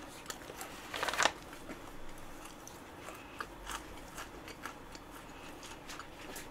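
Close-miked chewing of a matcha macaron with Nutella filling: a crisp crunch about a second in, then soft wet mouth clicks as the chewing goes on.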